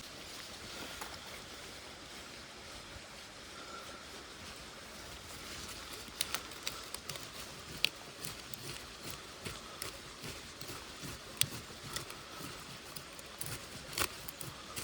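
Irregular sharp clicks and knocks, starting about six seconds in, over a steady faint hiss of outdoor background.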